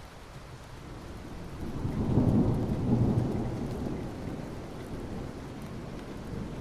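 Steady rain falling on asphalt, with a low rumble of distant thunder that swells about two seconds in and slowly fades.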